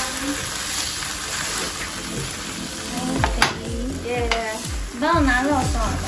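A scallion pancake with egg sizzling as it fries in a nonstick pan, with one sharp tap a little past halfway. Background music with a singing voice comes in about halfway through.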